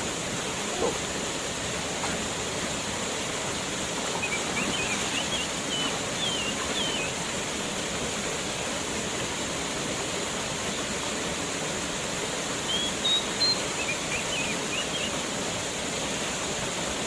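Waterfall rushing steadily. A few brief, high chirps come through the rush twice: from about four to seven seconds in and again from about thirteen to fifteen seconds in.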